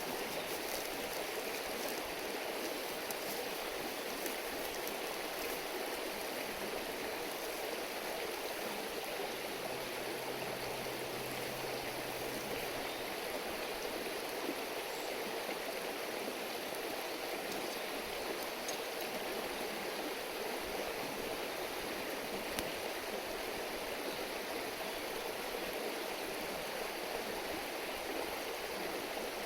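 A river or stream burbling steadily, an even rushing murmur of flowing water.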